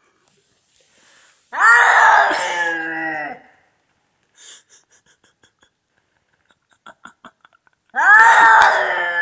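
Agitated house cat yowling twice: two long, drawn-out calls, the second starting about five seconds after the first ends.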